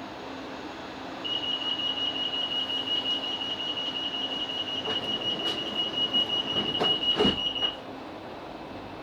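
Class 458 train's door-closing warning: a high, rapidly pulsing beep for about six seconds, with a few knocks and a heavier thud near the end as the doors shut, before departure. A low steady hum from the train runs underneath.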